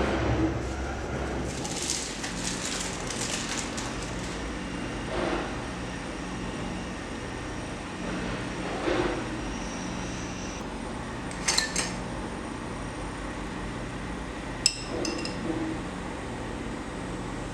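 Kitchen handling sounds: dishes, glass and utensils clinking and knocking every few seconds, with a brief flurry of rattling clicks near the start and one sharp click near the end, over a steady low hum.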